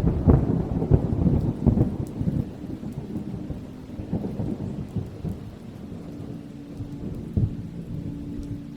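Thunder over steady rain: a sudden loud clap right at the start rolls and rumbles for about three seconds, more rumbling follows around four to five seconds in, and a short sharp crack comes near the end.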